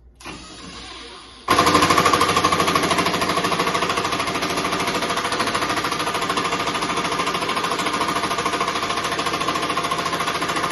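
Milwaukee M12 FUEL impact driver hammering under load as it drives a fastener. The run starts about a second and a half in and keeps going as a steady, rapid rattle of impacts, with the fastener going in slowly.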